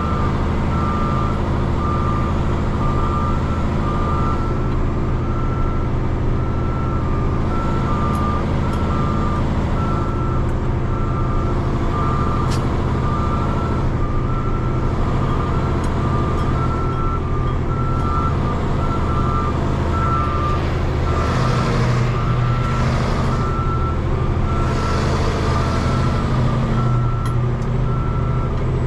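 Backup alarm beeping steadily in two alternating pitches over a diesel truck engine running. About two-thirds of the way through, the engine note changes and two short bursts of hiss come in.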